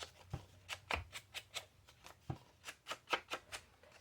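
Ink pad swiped and dabbed along paper edges in quick, irregular strokes, about three a second, with a few soft taps among them.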